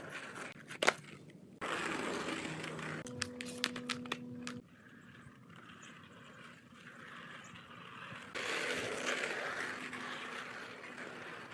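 Mini skateboard on 56 mm Acid wheels rolling over the ground in two stretches, with a sharp clack about a second in and a few quicker clicks of the board during the first roll.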